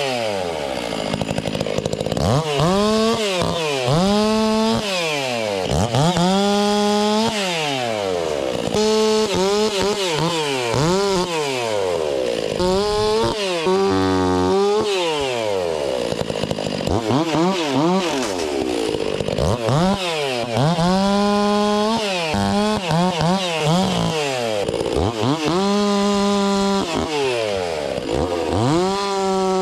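Stihl MS460 two-stroke chainsaw cutting white oak. The engine revs up, holds at high revs and drops back, over and over, about every two seconds.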